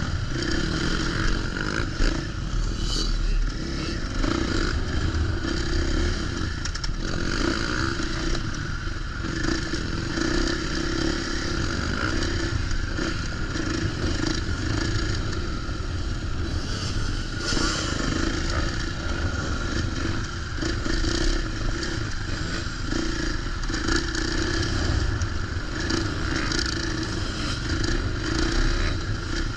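Dirt bike engine running steadily while being ridden, with frequent knocks and clicks over it.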